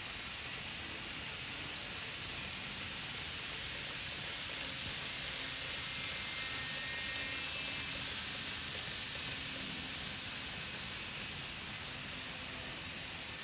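N gauge model Shinkansen running on a layout: a steady hiss that swells slightly toward the middle and eases off again, with a faint thin whine near the middle.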